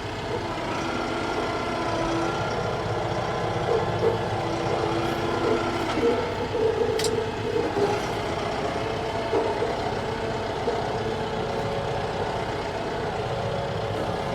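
TYM T654 tractor's diesel engine running steadily as the tractor drives at low speed.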